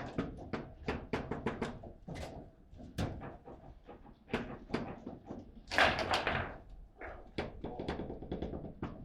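Table football in play: the ball and rods clacking and thudding against the players' figures and the table walls in quick, irregular knocks, with a louder burst about six seconds in.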